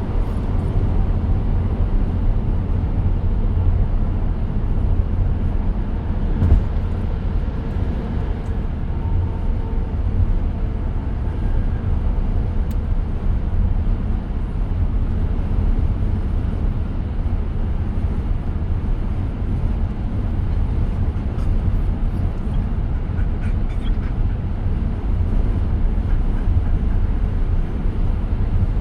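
Steady road and tyre rumble inside the cabin of a moving 2023 Tesla Model X, an electric car, with one brief knock about six and a half seconds in.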